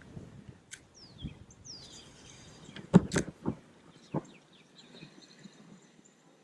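Birds calling with short, high falling chirps over quiet outdoor background, with a few sharp clicks or knocks about three to four seconds in.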